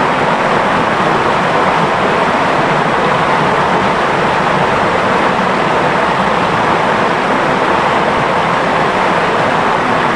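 Clear river water flowing and rippling over stones, a steady, unbroken rushing.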